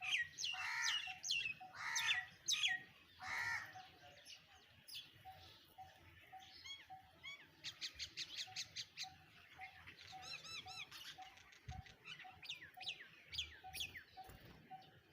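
Several birds calling together: sharp falling whistles, chirps and a few louder squawking calls, busiest in the first few seconds. Under them is a faint, even ticking about twice a second.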